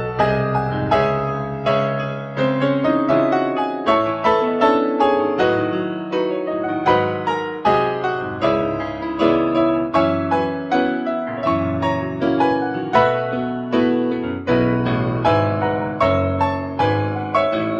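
Solo piano playing a slow, gentle piece of chords and melody, the notes struck and left to ring, about two notes a second.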